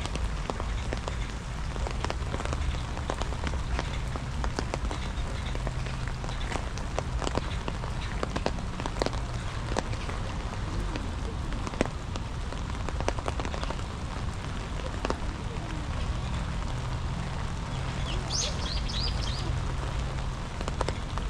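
Steady rain falling, with close raindrops pattering in many sharp ticks over an even hiss. A few short high chirps come near the end.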